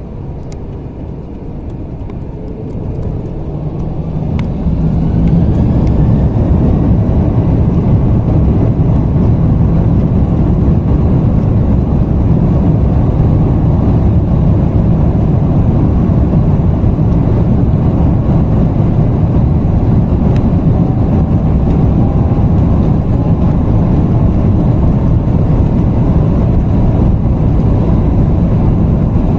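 Airbus A330-300 jet engines spooling up to takeoff thrust, heard from inside the passenger cabin: the sound builds over the first few seconds with a faint rising whine, then settles into a loud, steady, low roar through the takeoff run.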